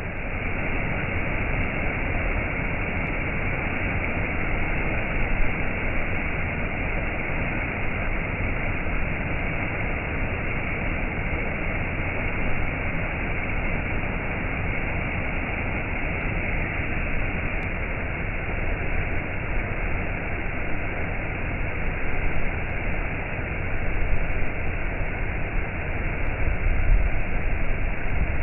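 Waterfall: the steady rush of falling water, rising a little in level near the end.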